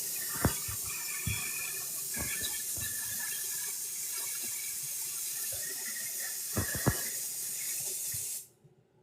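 Water running steadily from a tap with a few light knocks, shut off suddenly near the end.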